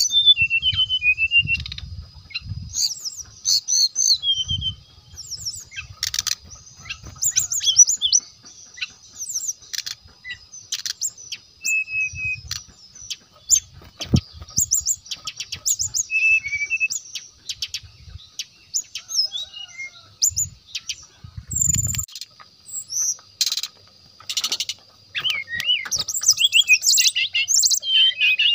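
Brown-chested jungle flycatcher singing: quick runs of high chirps and trills broken by short pauses, over a steady high tone, with a few faint low rumbles.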